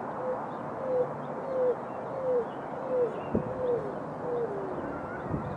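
Greater roadrunner calling: a series of about eight low, dove-like coos, each sliding slightly down, the series dropping in pitch toward the end.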